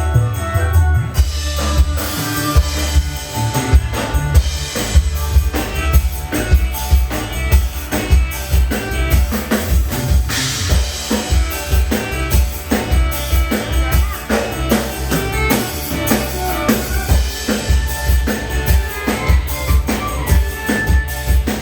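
Dangdut band playing an instrumental passage: a steady drum beat with kick and snare strikes under melodic instruments.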